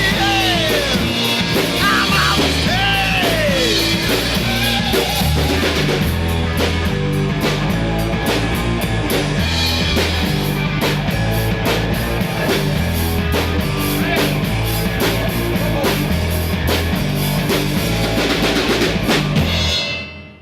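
Three-piece blues-rock band playing out a song on drum kit, bass and electric guitar with a steady beat; the music stops near the end and the sound dies away.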